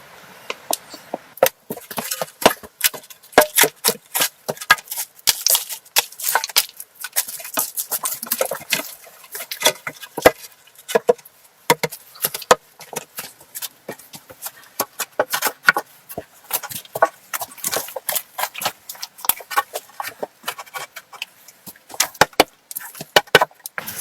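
Wood being knocked and struck by hand work: a rapid, irregular run of sharp knocks and clicks that goes on throughout.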